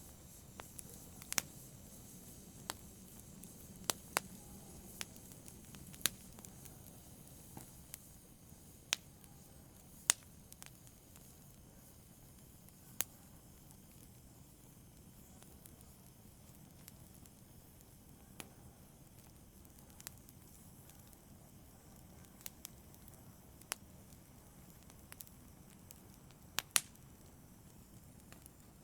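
Wood fire in a fireplace crackling, with irregular sharp pops over a low steady hiss; the pops grow sparser about halfway through.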